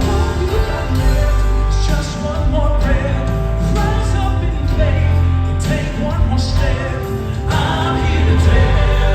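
Live southern gospel music: a male vocal quartet singing in harmony over band accompaniment with a strong, steady bass.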